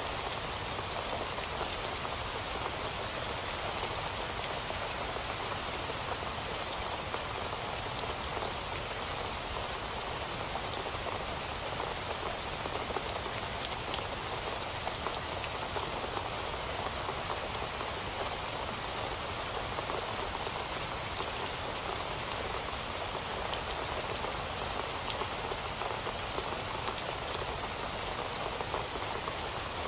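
Steady rain falling, an even hiss of rain with fine individual drop ticks, unchanging throughout.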